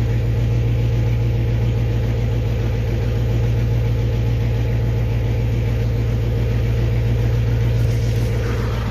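7.3-litre turbo-diesel V8 idling steadily through a 4-inch straight-piped exhaust, with a deep, even hum.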